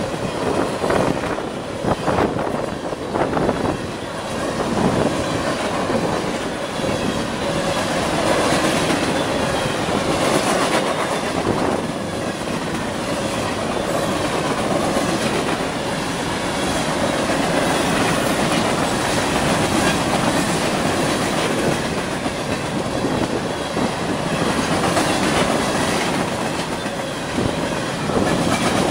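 Long CSX mixed freight train passing at speed, its freight cars rolling by with a continuous clickety-clack of wheels over the rail joints.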